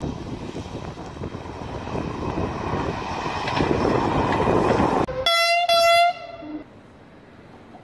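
A regional multiple-unit train passing by, its rumble and rolling noise growing louder, then two short blasts of a train horn at one steady pitch, the second cut off abruptly.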